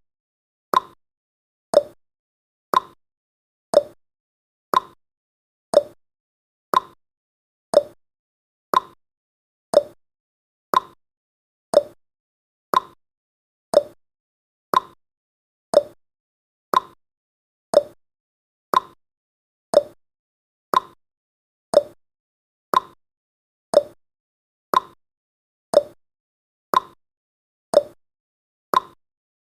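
Countdown timer's clock-ticking sound effect: one sharp tick a second, alternating between a higher and a lower tick like a tick-tock.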